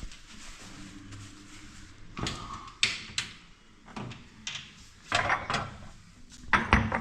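Knocks and clatter of a cupboard door and crockery being handled as a large plate is fetched, a few separate knocks, then busier clattering near the end.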